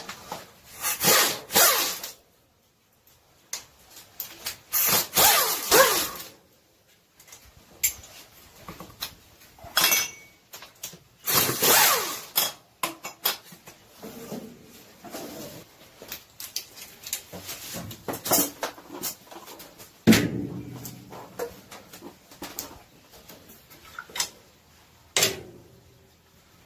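Bolts on an engine's intake manifold being turned with a ratchet wrench: several runs of clicking ratcheting, each one to two seconds long, with short metallic clicks and knocks in between.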